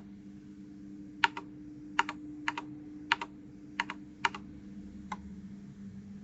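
Individual key presses on a 1st Player DK 5.0 keyboard fitted with new keycaps: about seven separate keystrokes, most heard as a quick double click, over a faint steady hum.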